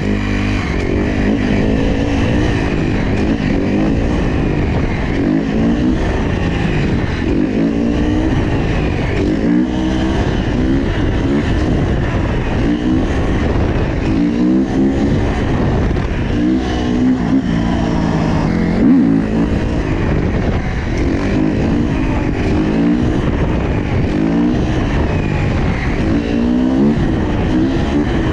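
Dirt bike engines revving over and over, the pitch climbing and dropping again every second or two, with engine noise running underneath throughout.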